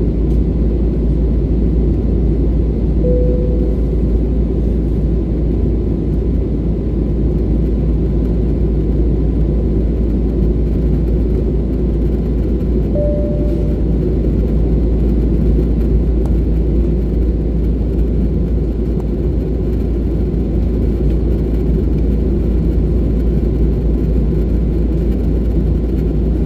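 Steady low rumble of an Airbus A320neo in flight, heard inside the cabin: engine and airflow noise. Two short single tones sound over it, about three seconds in and again about thirteen seconds in.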